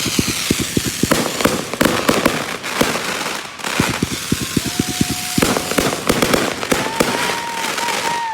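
Fireworks going off in a rapid barrage: a quick run of sharp bangs, about ten a second, over a constant crackle, stopping suddenly at the end.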